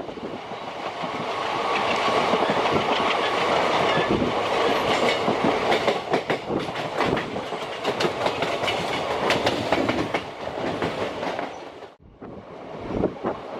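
Express train coaches running at speed, wheels clicking over rail joints amid a steady rush of wind and running noise. The sound drops out abruptly about twelve seconds in and then picks up again.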